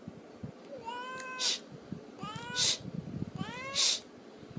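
A domestic cat meowing three times, drawn-out calls about a second apart, each ending in a short breathy burst.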